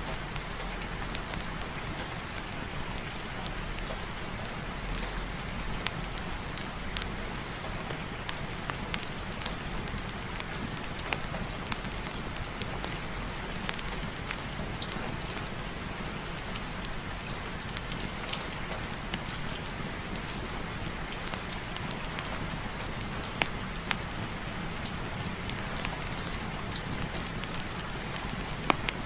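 Heavy rain falling steadily: a constant even hiss with many scattered sharp ticks of drops.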